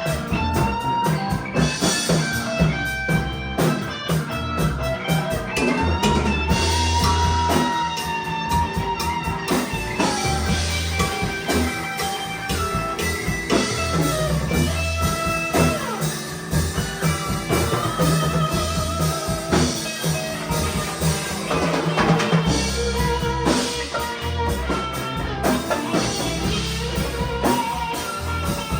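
A band playing a rock/blues song on electric guitar and drum kit, with a lead line of held, wavering notes over a steady beat.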